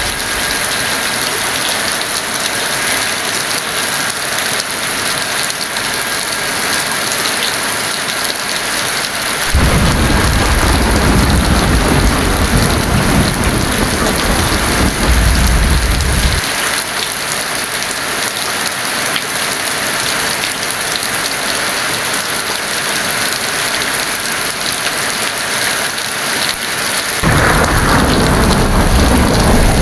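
Heavy rain falling steadily in a thunderstorm. Thunder rumbles twice, from about a third of the way in for several seconds and again starting near the end.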